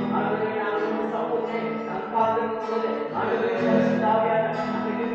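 Singing with musical accompaniment, a Tamil Christian worship song, with long held notes.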